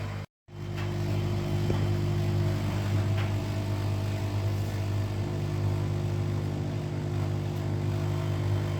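Washing machine running mid-cycle, its motor giving a steady low hum with a few faint ticks. The sound cuts out for a split second near the start.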